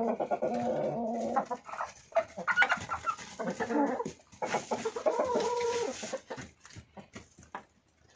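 Domestic chickens clucking and calling, with a drawn-out call at the start and another around the middle, and shorter clucks between.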